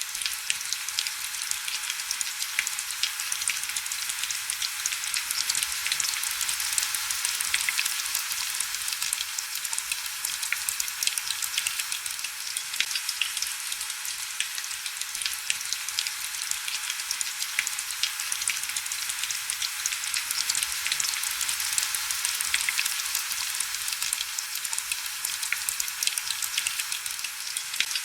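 Heavy rain falling steadily: a dense, even hiss full of tiny crackling drop ticks, bright and thin with almost no low rumble.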